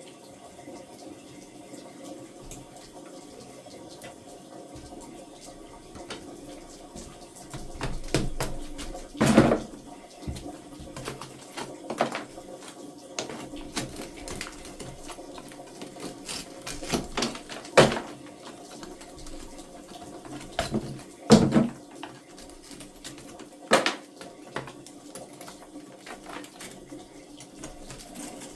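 Scattered knocks and clatter of tools and materials being handled, irregular and unrhythmic, the loudest about nine, eighteen, twenty-one and twenty-four seconds in, over a steady low background noise.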